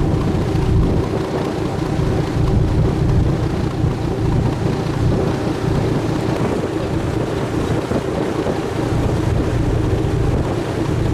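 Steady low rumble of a sightseeing cruise ship under way, its engine running with wind noise on the microphone.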